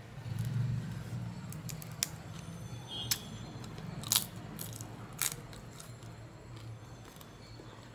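Eating sounds: flatbread with curry being chewed, with a few short sharp mouth clicks and smacks about a second apart, over a steady low hum.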